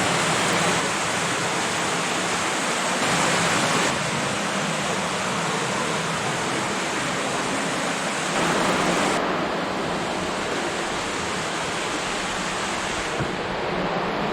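Laurel Run's water rushing through a stream tunnel: a steady, loud hiss of flowing water that swells slightly twice.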